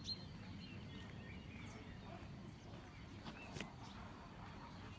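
Faint outdoor ambience with a low steady hum and a few short, thin bird chirps, plus a couple of faint clicks.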